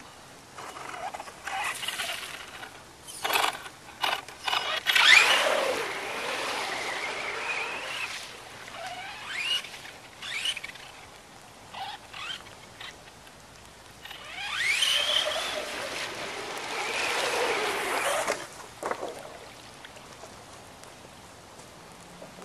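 Electric R/C monster truck's motor whining up in pitch in bursts of throttle, with splashing of water and mud as it drives through a puddle. The biggest bursts come about five seconds in and again around fifteen seconds, and it goes quieter for the last few seconds.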